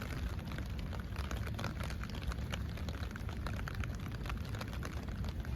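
Rain falling, with many small drops ticking close by over a steady low rumble.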